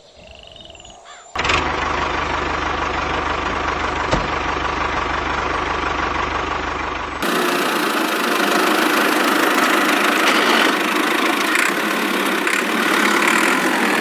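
A small motor-driven machine starts running suddenly about a second in, a steady mechanical hum with a low drone. About seven seconds in it switches abruptly to a brighter, noisier running sound without the low drone.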